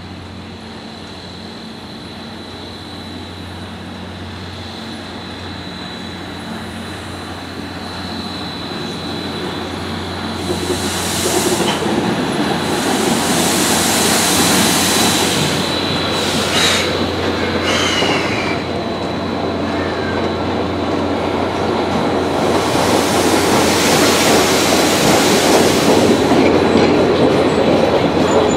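C58 steam locomotive drawing slowly into the station and growing louder as it nears, with bursts of hissing and a couple of brief wheel squeals. In the last seconds an electric commuter train runs in alongside.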